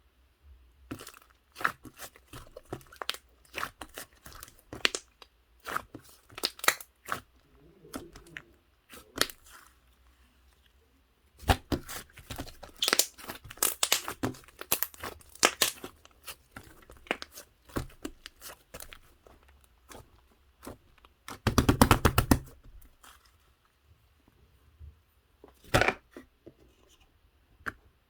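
Fluffy slime being squished, stretched and pressed by hand, giving irregular crisp crackles and popping clicks, with a dense, loud run of pops a little over two-thirds of the way through.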